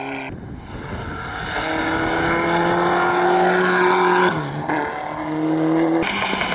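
Rally car engine running hard at high revs, its note climbing steadily, with a brief break about four seconds in before it climbs again.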